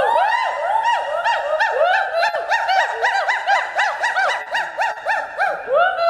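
Gibbon calling: a fast run of clear, hooting whoops, each note rising and then falling, at about four a second.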